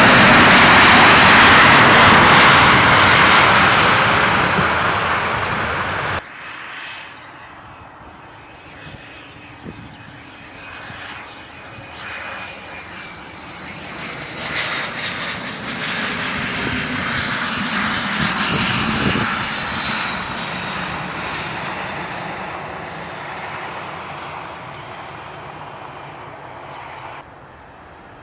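Jet airliner engines: a loud, even roar for about six seconds that cuts off suddenly, then a quieter jet passing with a high turbine whine falling slowly in pitch, building to its loudest about two-thirds through and fading before another sudden cut near the end.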